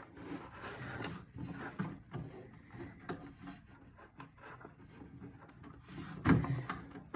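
Hands working a cable connector into a PC part mounted in a wooden box: small plastic clicks, scraping and rubbing, with light knocks on the wood and a louder knock about six seconds in.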